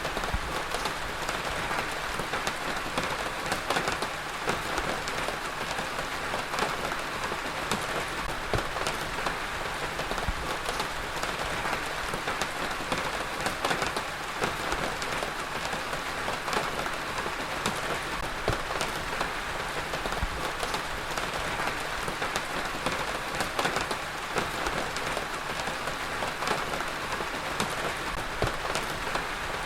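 Heavy rain falling steadily, a dense even hiss of rain on a surface with many separate drops pattering through it.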